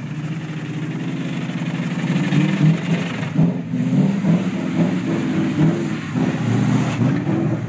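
A ute's engine running, then revving up and down in repeated surges from about two seconds in, as its rear wheels spin on wet grass: the ute is bogged and being driven and pushed to get it free.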